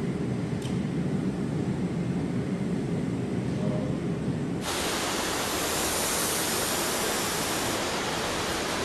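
Low, steady rumble of a BMW 2 Series driving, road and engine noise, which cuts off abruptly about four and a half seconds in to a steady, bright hiss.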